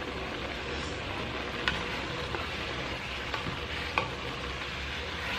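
Ground turkey and mushrooms sizzling as they fry in a pot while being stirred, with a few light clicks of the stirring utensil against the pot.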